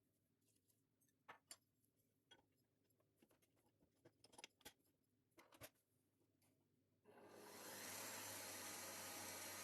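A few light clicks and taps of kitchen handling, then a steady hiss starts about seven seconds in and holds.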